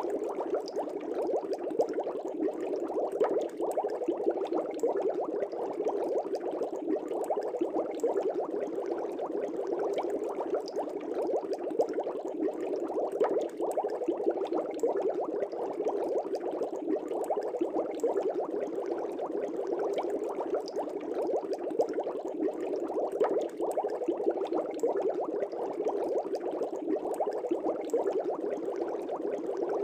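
Air bubbles rising steadily in an aquarium: a constant dense bubbling with many small pops and no let-up.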